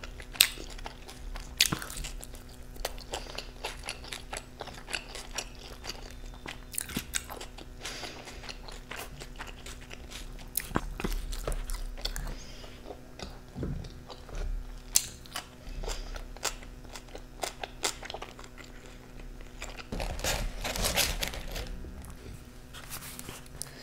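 Close-miked eating: biting and chewing pizza, with many short crisp crunches and mouth clicks, growing louder and denser near the end.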